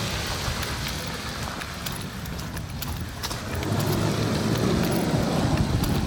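A car running while driving: a steady low rumble of engine and road noise that gets louder a little over halfway through, as if picking up speed.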